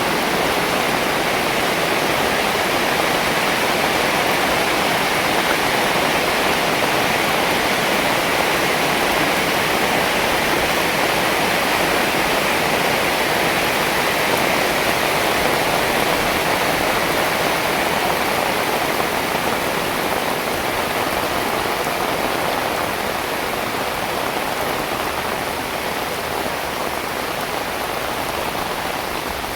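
Heavy rain falling steadily, a dense even hiss that eases slightly in the last third.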